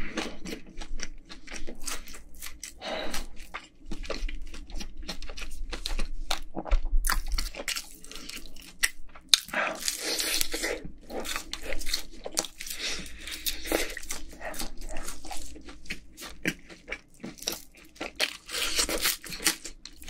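Close-miked crunching and chewing of fried chicken coated in sticky sweet-spicy yangnyeom sauce: crisp crust crackling in quick, irregular bites and chews.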